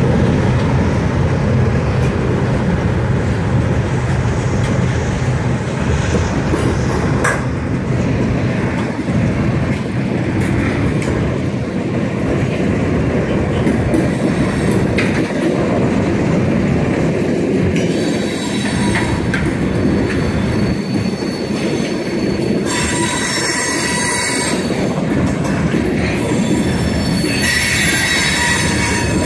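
Freight cars rolling past: a steady rumble and clatter of steel wheels on rail. A high-pitched wheel squeal sets in about two-thirds of the way through, loudest in two stretches near the end.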